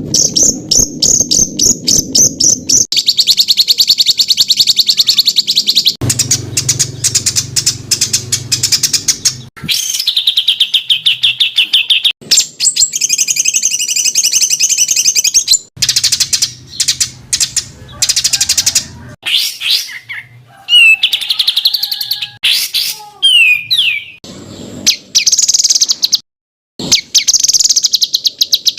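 Songbirds singing in an edited chain of recordings made as masteran, the tutor song used to train cage birds. The songs are fast runs of rapidly repeated, harsh high notes, and the recording switches abruptly to a different bird every few seconds.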